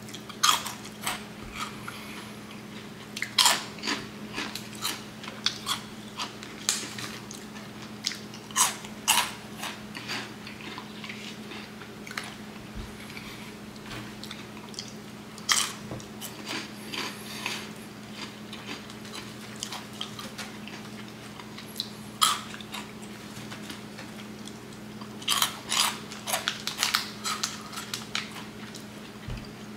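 Flaming Hot Cheetos being bitten and chewed: sharp crunches that come in clusters every few seconds, with a steady low hum underneath.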